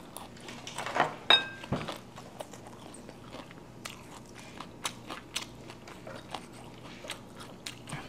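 A person biting into and chewing a fresh spring roll of rice paper, fried tilapia and herbs, heard close up, with many small wet mouth clicks. A brief ringing clink about a second in, with a soft thud just after.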